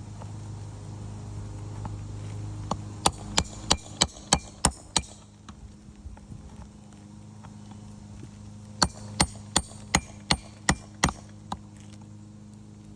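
Two quick runs of sharp hammer blows, about seven strikes each at roughly three a second, a few seconds apart, as a roofer works on the shingle roof.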